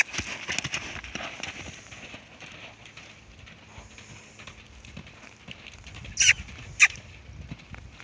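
Horses moving about, their hooves knocking on the ground in a scatter of short beats, with two louder sharp sounds a little over half a second apart about six seconds in.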